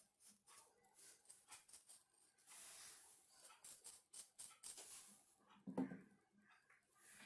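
Faint scattered clicks and light taps, with a short hiss about two and a half seconds in and a soft knock near six seconds.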